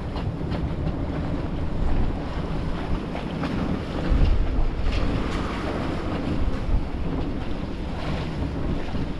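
Strong wind buffeting the microphone over the rush of waves around a small sailboat, with a louder gust about four seconds in.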